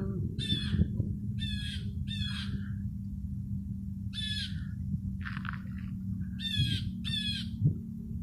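A bird giving harsh, squawking calls, about six in all, mostly in quick pairs spaced a second or two apart.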